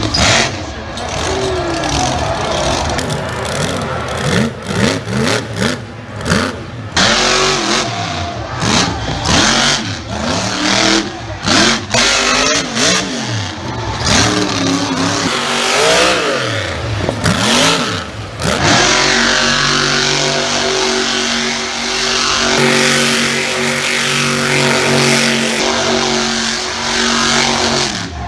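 Monster truck engine revving hard over and over, its pitch sweeping up and down, then held at a steady high pitch for the last several seconds.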